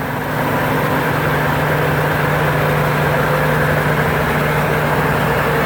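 Combine harvester's turbocharged Hino J2 diesel engine running steadily at working speed: an even, continuous hum with a constant low tone.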